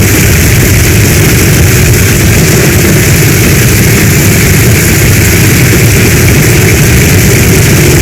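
Heavy storm rain pouring steadily, loud, with a deep rumble underneath.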